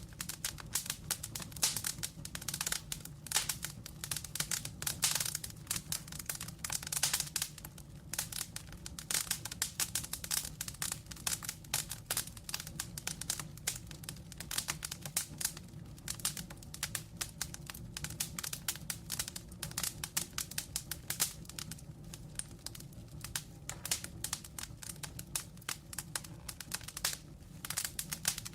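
Wood logs burning, crackling and popping: dense irregular crackles and snaps over a low, steady rumble of flame.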